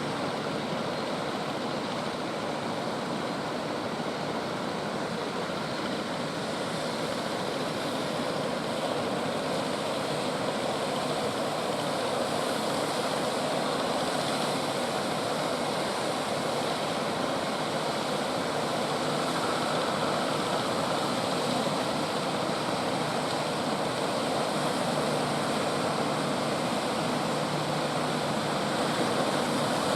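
Ocean surf breaking on a beach: a steady, continuous rush of waves that grows a little louder toward the end.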